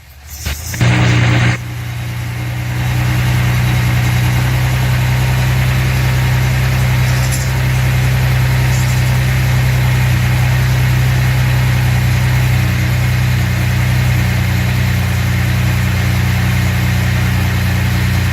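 1970 Datsun 240Z's freshly rebuilt L24 straight-six running on choke: a short burst of revs in the first second or two, then settling into a steady, smooth idle.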